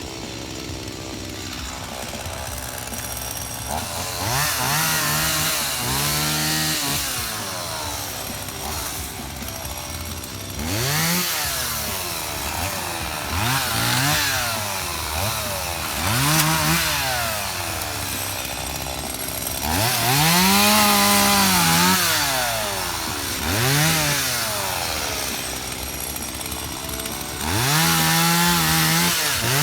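Stihl chainsaw revving up and dropping back to idle several times, each rev lasting one to two seconds, while cutting wood.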